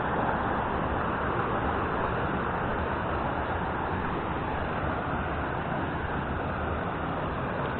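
Steady, unbroken noise of a 35-metre mountain waterfall, the Marble Falls, pouring down.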